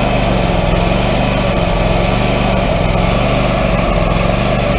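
The engine of a Wood-Mizer LT40 hydraulic portable sawmill running steadily under light hydraulic load as the log loader is worked.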